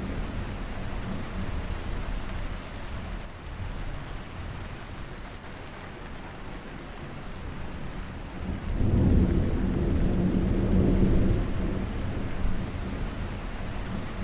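Steady rain with low, rolling thunder; the rumble swells about nine seconds in and rolls for a few seconds before easing.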